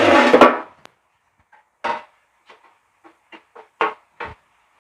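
A short burst of scraping noise, then about seven short, irregular knocks, like light hammer taps on the sheet-steel motorcycle fuel tank being straightened.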